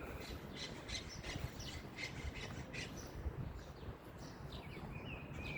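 Birds calling: a quick run of short, high chirps through the first three seconds, sparser after that, with another call near the end, over a low, steady outdoor rumble.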